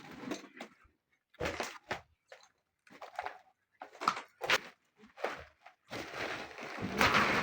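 Irregular thuds and scuffing noises in short bursts with brief silences between them, the loudest and longest near the end.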